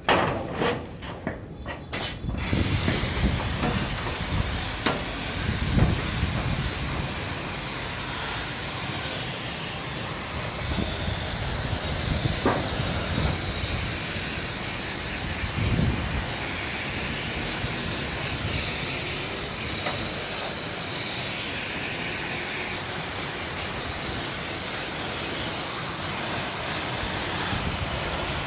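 Steady hiss of a high-pressure water jet spraying, likely onto the air conditioner's coil during cleaning, starting about two seconds in after a few short knocks.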